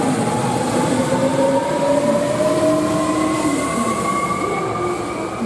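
Electric train's traction motors whining, several tones rising slowly in pitch as the train accelerates, over steady rolling noise.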